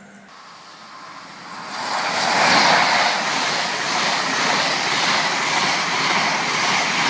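InterCity 125 High Speed Train, with Class 43 power cars, passing through the station at speed. A rush of wheel and air noise builds about two seconds in and stays loud.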